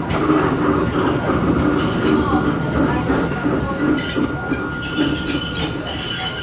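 Running sound heard aboard a Hakone Tozan Railway Moha 1 electric car on NA7 bogies, with nose-suspended motors: the rumble and clatter of the wheels on the track. About a second in, a high, steady wheel flange squeal begins, the sound of the car taking a curve.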